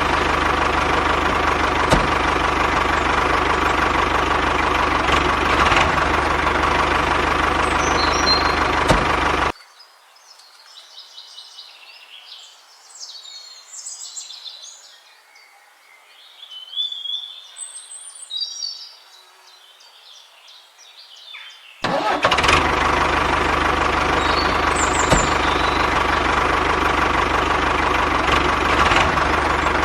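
A steady machine drone with a high whine, cut off abruptly about a third of the way in. Birds chirp in the quiet gap for about twelve seconds before the drone returns just as suddenly.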